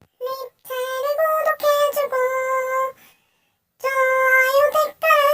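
A high voice singing a short tune in long, held notes: a phrase of about three seconds, a pause, then a second phrase beginning near the end.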